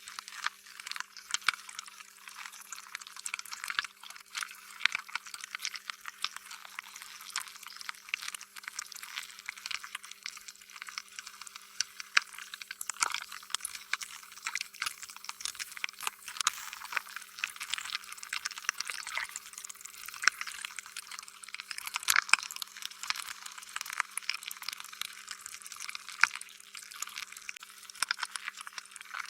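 Slime being squished and worked: a continuous stream of small wet clicks and pops, with sharper, louder pops scattered through.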